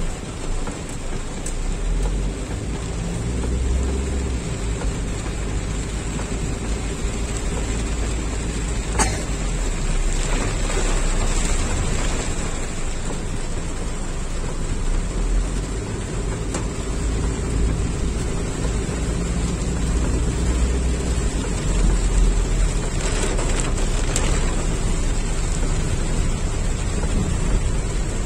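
Steady rain falling on a moving car's roof and windscreen, heard from inside the cabin, over a steady low rumble.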